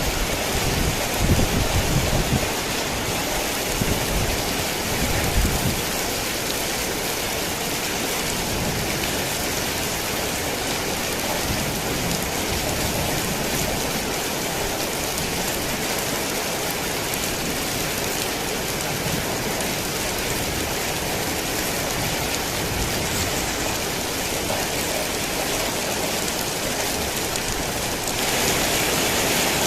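Heavy rain falling steadily as a dense, even hiss. Low thunder rumbles in the first few seconds. Near the end the rain abruptly gets louder and hissier.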